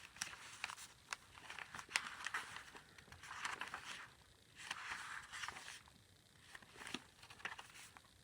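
Paper and cardstock journal pages and tags being handled and turned: bursts of rustling with sharp little clicks and taps, quieter toward the end.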